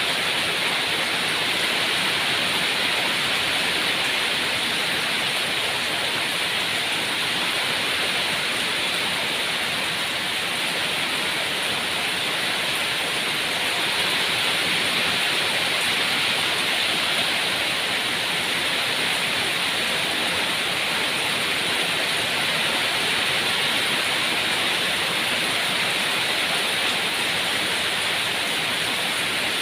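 Steady, even rain with no single drops standing out.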